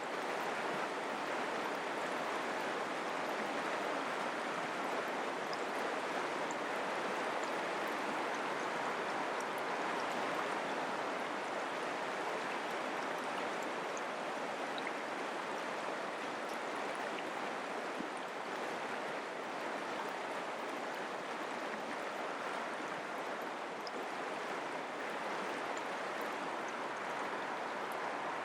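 Mountain creek water flowing, a steady even rush.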